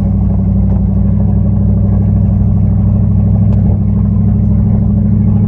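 Dodge Ram pickup's engine running steadily under load as the truck climbs slowly up a rough dirt trail, with a faint click or rattle now and then.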